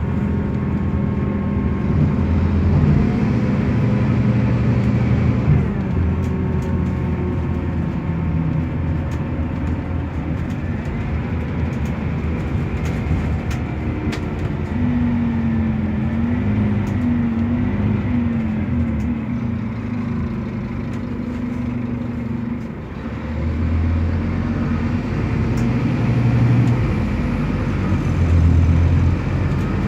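Scania K280UB bus driving, its Scania DC9 five-cylinder diesel running through a ZF Ecolife automatic gearbox. The engine note shifts up and down, with a wavering whine in the middle and a short dip about two-thirds of the way through before it pulls again.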